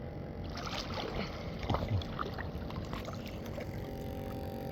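Water sloshing and splashing against a small boat's hull as it is pushed off, over a steady low rumble, with a few small splashes or knocks in the first half.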